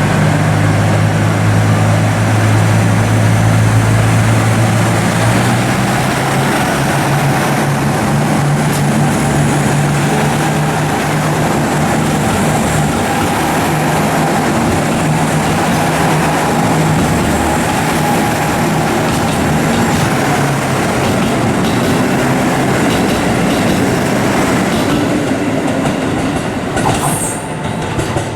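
KiHa 85 series diesel express railcar running at speed: a steady wheel-on-rail rumble and hiss with a strong diesel engine drone, which is heaviest for the first six seconds and then eases.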